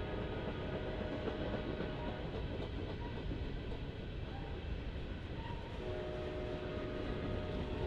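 Freight train rolling past: a steady rumble of cars on the rails, with faint steady tones that fade away midway and return near the end.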